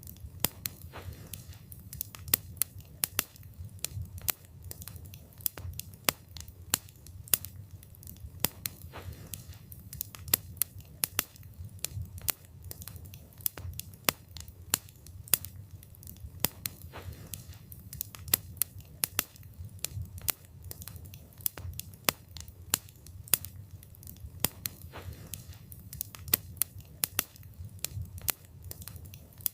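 Wood fire burning, with a low steady rumble of flames and many sharp, irregular crackles and pops from the burning wood.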